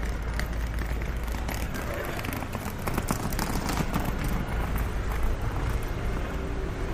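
City street ambience on a rainy, windy day: steady traffic noise with a vehicle going by and wind rumbling on the microphone. A run of sharp ticks comes about two to four seconds in.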